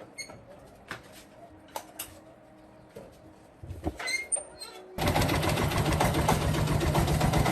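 Light clicks and knocks, then about five seconds in a loud machine starts running abruptly and keeps going steadily until it cuts off.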